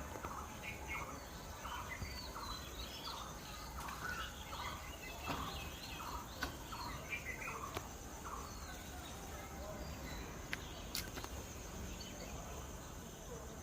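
Birds calling in a rapid run of short, repeated chattering notes, several a second, thinning out after about nine seconds. Under them is a steady high hiss and a few sharp clicks.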